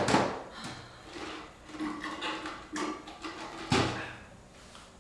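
Objects being handled: a sharp knock right at the start, then a run of clattering and rustling, and another sharp knock a little before four seconds in.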